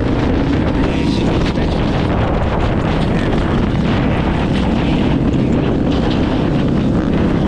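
Dirt bike engines running steadily, with wind buffeting the microphone.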